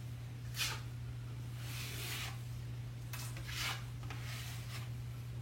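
Drywall knife scraping joint compound across a wall in about five short strokes, spreading the mud on and wiping it off. A steady low hum runs underneath.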